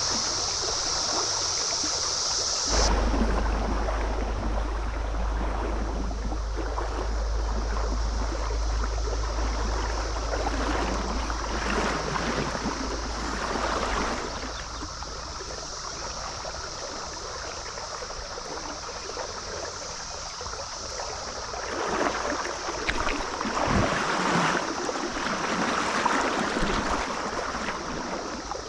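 Stream water running steadily over the riffles, swelling louder at times, with a low rumble joining about three seconds in.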